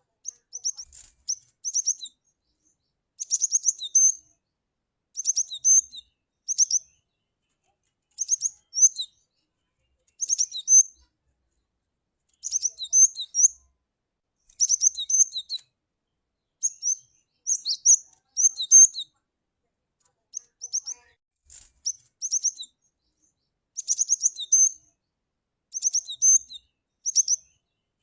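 Cinereous tit (gelatik batu) calling: short clusters of high, quick chirps each followed by a lower note, repeated every second or two against a silent background.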